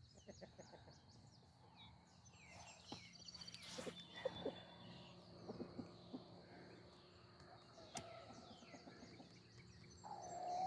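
Faint background chirping of small birds, with a few light knocks and taps about four seconds in; otherwise near silence.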